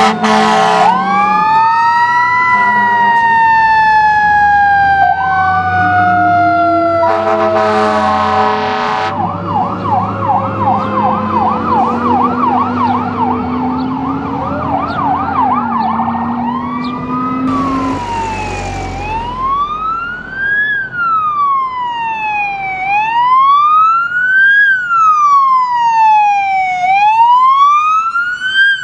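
Emergency vehicle responding code 3: a siren winding down in a slow wail, a blast of an air horn, a fast yelp for several seconds, another short horn blast, then the wail rising and falling about every four seconds.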